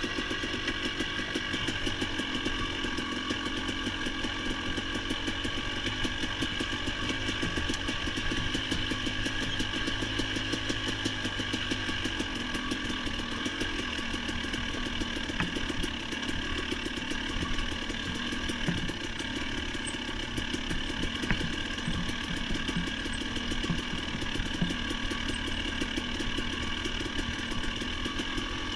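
Engine of a small off-road vehicle running steadily while under way.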